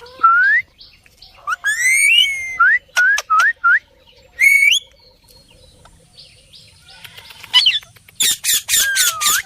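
Pet parrot calling: rising whistled notes and short chirps for the first few seconds, a pause, then a run of harsh squawks with a long swooping whistle near the end.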